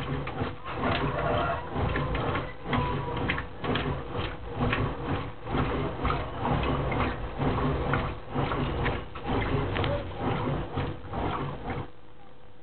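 Brastemp Clean 10 kg washing machine agitating during the rinse: the agitator swishes the water back and forth in uneven pulses over a steady motor hum. It stops suddenly near the end.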